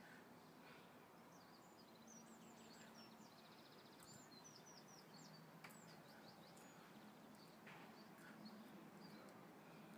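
Near silence: faint outdoor background hiss, with a bird's faint quick chirps and twitters from about two to six seconds in.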